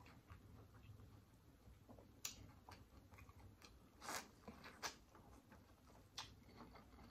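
Quiet eating: soft mouth clicks and smacks of someone chewing food, a few separate ones standing out a little over two seconds in, around four seconds in and near six seconds.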